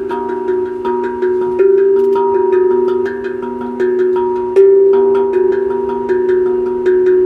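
A tuned steel hand drum played with the hands: single ringing notes struck about every half second to a second in a slow melody, each note sustaining and fading until the next.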